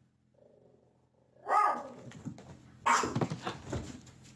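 An animal calling twice, about a second and a half apart, after a near-silent start.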